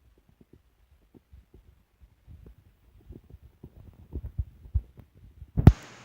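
Irregular soft low thumps, coming more often and louder over the last couple of seconds, ending in one loud thump shortly before the end.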